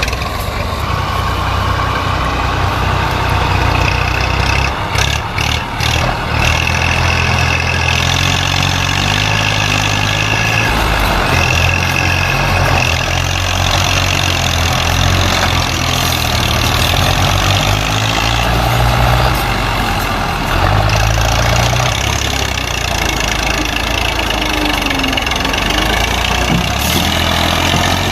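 Massey Ferguson 240 tractor's three-cylinder diesel engine running, its low note shifting in pitch and level now and then as it works. A few sharp clicks about five to six seconds in.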